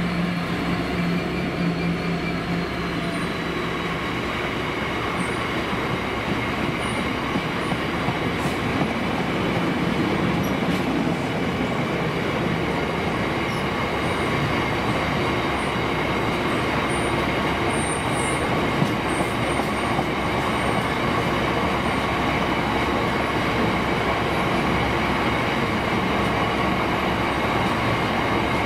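Freightliner Class 66 diesel freight locomotive passing through the station. Its two-stroke V12 engine note is heard for the first few seconds, then a long, steady rumble of the freight wagons rolling past on the rails.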